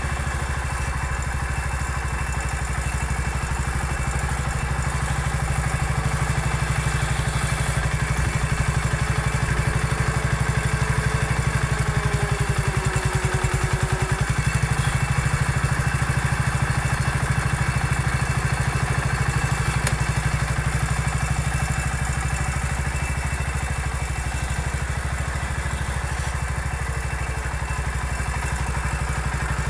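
Massey Ferguson 14 garden tractor's engine running steadily while it works as a bulldozer, a little louder around the middle.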